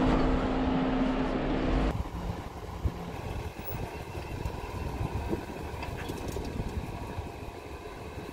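Jeep Wrangler engine running at low speed on an off-road trail. For about the first two seconds it is louder, with a steady hum, then it drops suddenly to a quieter, even running sound.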